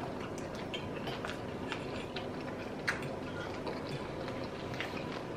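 Close-miked wet chewing and mouth clicks from eating curry chicken feet: a run of soft, irregular little clicks and smacks.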